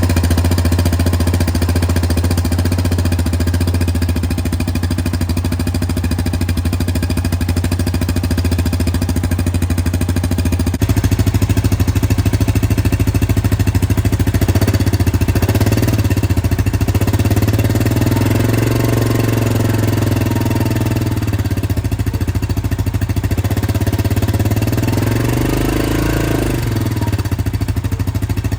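Yamaha Kodiak 700 ATV's single-cylinder engine running at idle through its exhaust, a steady low rumble. About eleven seconds in the sound abruptly gets louder, and in the second half the engine speed rises and falls gently a few times, as if lightly blipped.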